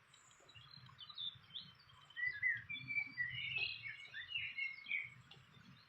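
Small birds chirping: a quick run of short, high chirps, faint at first and busier and louder from about two seconds in.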